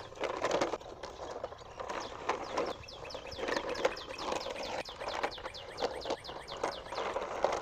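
Small birds chirping: many short, falling peeps in quick succession, over irregular knocks and rustling.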